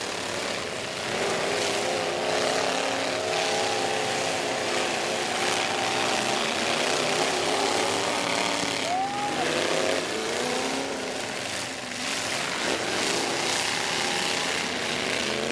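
Several demolition-derby trucks' engines running and revving at once, their pitches wavering up and down over a loud, steady din.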